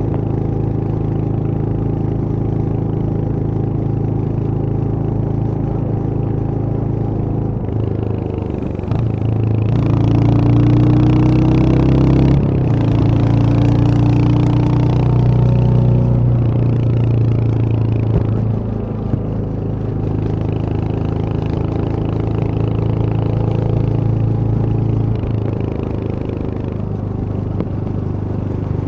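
Royal Enfield Hunter 350's single-cylinder engine running on the road. Its note climbs in two steps, about eight and about twelve seconds in, with more rushing noise over it, then eases off and settles to a steady run.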